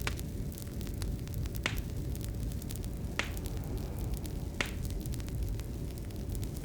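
Fireplace fire crackling: a steady low rumble under many small crackles, with four sharper pops about a second and a half apart.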